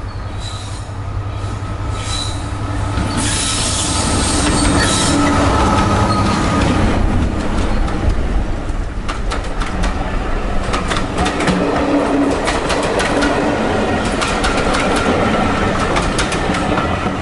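Diesel locomotive hauling a train of coaches passing close by: its engine drones, growing louder over the first few seconds as it arrives, then the coaches' wheels click rapidly over the rail joints as they go past.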